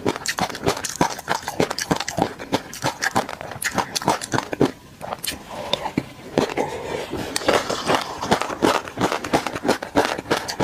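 Close-miked mouth sounds of chewing tobiko (flying fish roe) mixed with peanut sauce: rapid, wet popping and crackling clicks as the tiny eggs burst. There is a brief lull about halfway through, then a fresh mouthful with dense popping.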